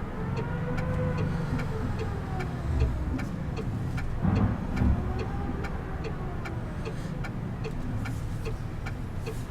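Car engine running, its pitch rising and falling twice as the car revs up and eases off, with a steady light ticking about two or three times a second, like a turn-signal indicator.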